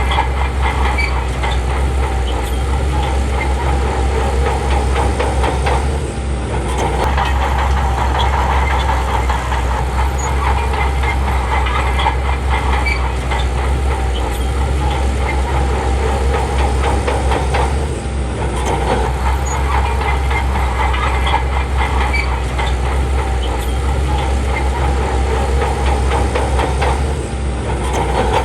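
Crawler bulldozer's diesel engine running under load with steady clanking of its steel tracks, the sound briefly easing three times.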